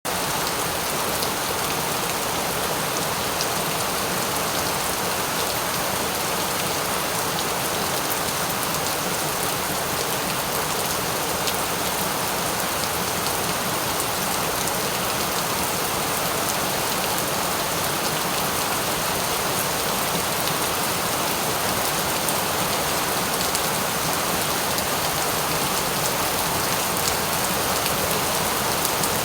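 Steady rain falling, an even hiss of many drops with fine scattered drop ticks, unchanging in level.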